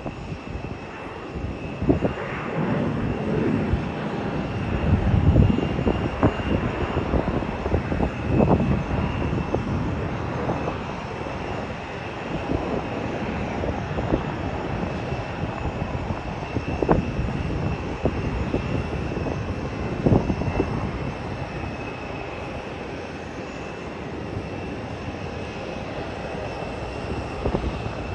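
Airliner jet engines running at an airport, with a steady high whine. Gusts of wind buffet the microphone in irregular low surges.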